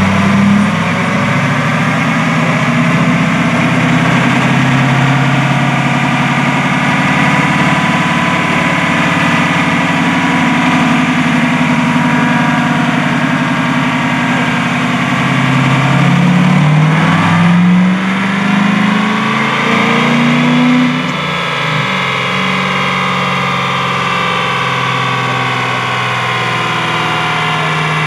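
A car engine idling steadily, then revved twice about two-thirds of the way through, dropping back to idle.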